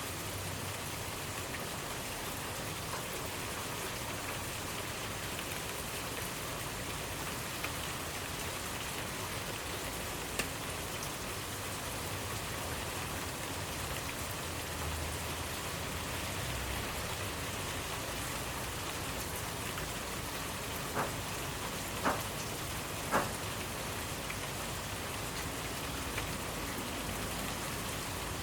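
Steady rainfall on surfaces, with a few louder single drops landing close by, three of them together around 21 to 23 seconds in.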